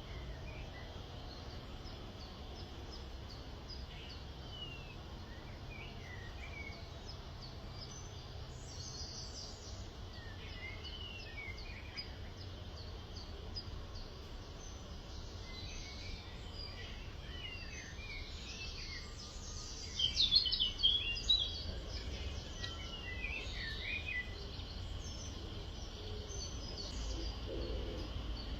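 Several birds chirping and calling over a steady low background rumble, with a louder flurry of chirps about twenty seconds in.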